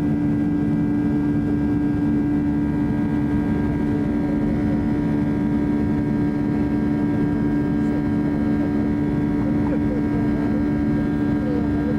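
Boeing 757 jet engines heard from inside the passenger cabin: a steady, loud drone with a constant low hum.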